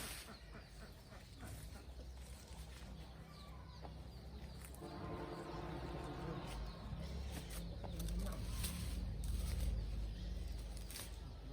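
A rooster crowing once, a pitched call of about two seconds starting about five seconds in, over a steady low rumble.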